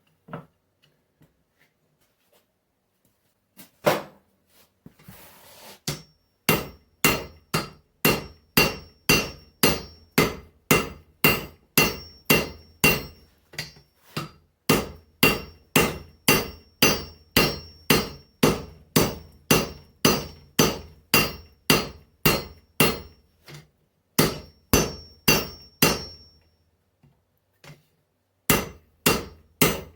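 Blacksmith's hammer striking a hot mild-steel axe blank on an anvil to straighten it, in an even run of about two blows a second with a high ringing note from the anvil. A lone blow comes about four seconds in, and the hammering pauses briefly twice near the end.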